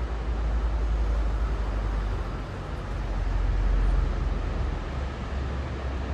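Wind buffeting the microphone in a low, swelling rumble, over the steady wash of ocean surf.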